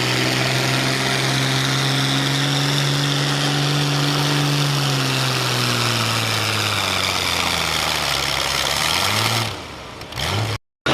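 A heavy pulling-vehicle engine running steadily, its pitch slowly sinking for a few seconds as it slows. Near the end the sound drops away and cuts off abruptly.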